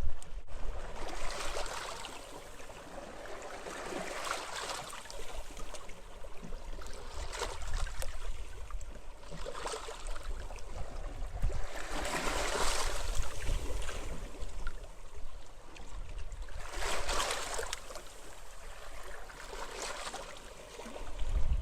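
Small waves washing onto a beach, the hiss of surf swelling and fading every few seconds, over a low rumble of wind.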